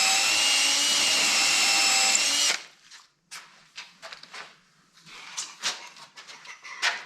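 Electric drill running at a steady high speed with a whine, then stopping about two and a half seconds in. Scattered light clicks and knocks follow.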